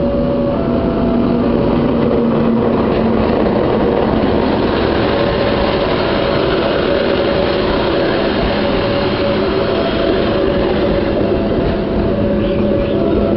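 Passenger train rolling into a station: a loud, steady rumble of the diesel locomotive and the cars' wheels on the rails.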